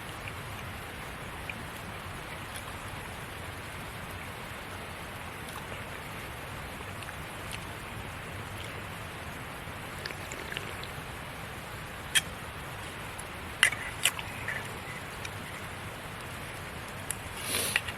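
Campfire burning with a steady hiss and crackle, a few sharp pops a little past the middle, and a louder rustling burst near the end.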